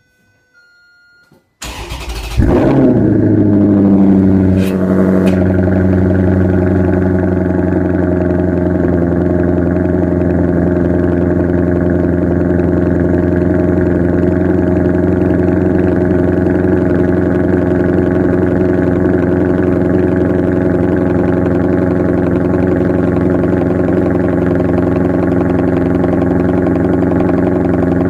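Maserati GranTurismo S V8 engine started: the starter cranks briefly, the engine catches about two seconds in with a loud flare of revs, then settles a few seconds later into a steady idle.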